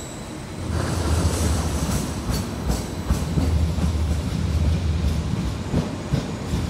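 Greater Anglia Class 755 multiple unit running past close along the platform. It is a loud low rumble that swells sharply under a second in, with a run of wheel clicks over the rail joints.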